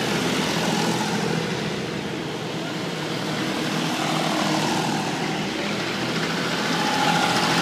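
Tractor engines running steadily as tractors drive past, a continuous engine drone.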